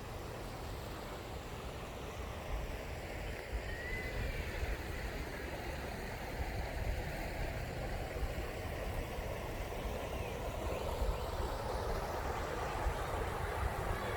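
Wind buffeting the microphone with tyre and road noise during a bicycle ride: a steady rushing noise with a heavy, fluttering low rumble, growing slightly louder.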